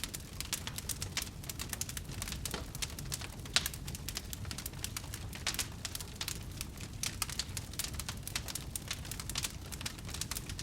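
Campfire burning: wood crackling in quick, irregular pops and snaps over a low, steady rumble of flame, with one louder pop about three and a half seconds in.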